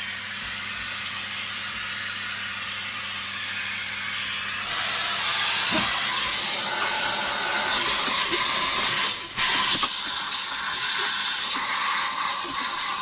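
Steady hiss of rushing air as dusty parts are blown or sucked clean. It gets louder about five seconds in and cuts out for a moment a little after nine seconds. A low electrical hum sits under it for the first six seconds or so, then stops.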